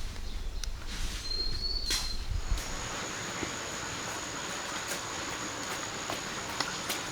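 Outdoor rural ambience: a low rumble for the first couple of seconds, then a steady high-pitched insect drone sets in about two and a half seconds in, with a few faint clicks.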